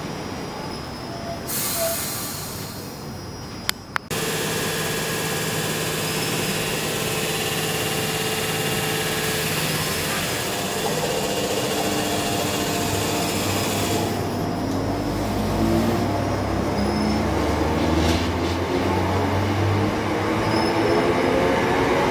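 Electric multiple-unit trains running through a station, with steady wheel and rail rumble and motor hum. From about fifteen seconds in, a rising whine builds as a train's traction motors accelerate. The sound changes abruptly about four seconds in.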